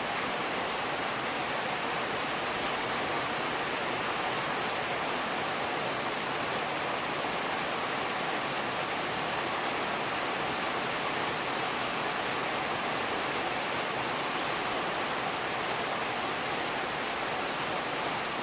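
Steady rainfall, an even hiss that does not change in level, with a few faint drop ticks near the end.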